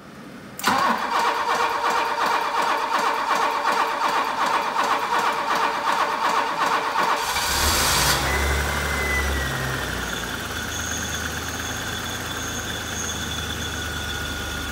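BMW E30 325e's 2.7-litre M20 straight-six being started: the starter cranks for about six and a half seconds before the engine catches, then it settles into a steady idle.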